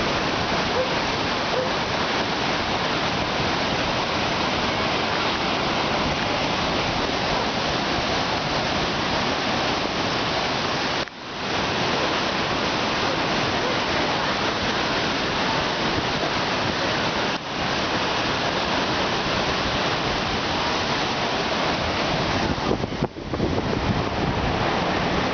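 Farmington River in flood, nineteen feet above flood stage and running at 30,000 cubic feet per second: a loud, steady rush of whitewater pouring through standing waves. The rush dips briefly three times.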